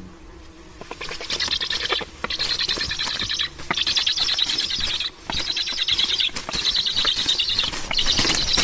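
Black storks at the nest giving rapid rasping, clicking calls in repeated bouts of about a second each, with short breaks between, starting about a second in.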